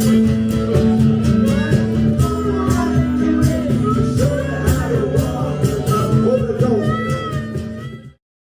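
Strummed guitar with a singing voice, live open-mic music that cuts off abruptly about a second before the end.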